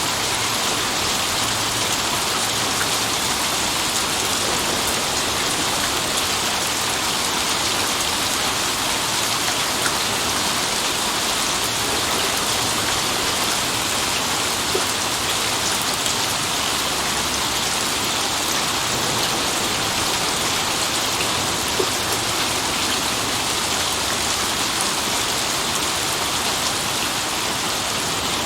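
Steady heavy rain falling and pattering on surfaces, with a few brief louder drops.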